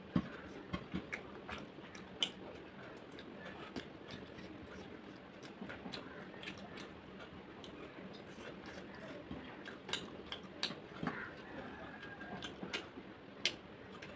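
Close-up eating sounds of a person chewing chicken and rice taken by hand: irregular wet mouth clicks and smacks, with a few sharper ones.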